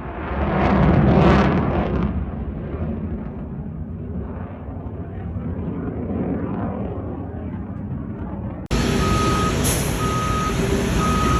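Danish Air Force F-16's jet engine running loud, swelling about a second in and then easing off. Near the end it cuts off abruptly to a vehicle's reversing alarm beeping about once a second over a steady hiss.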